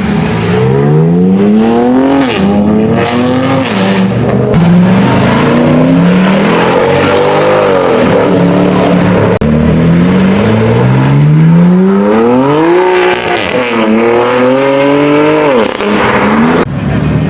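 Car engine revving hard, its pitch climbing and dropping back about six times.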